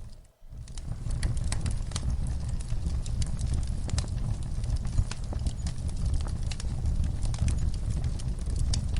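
Wood fire burning in a fireplace: a steady low rumble of flame under frequent sharp crackles and pops. The sound cuts out for a moment just after the start, then resumes.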